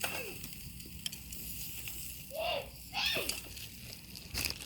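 Campfire crackling and hissing with a faint sizzle, scattered fine ticks over a steady hiss. Two brief high-pitched sounds come a little past halfway, and a sharp noisy burst comes near the end.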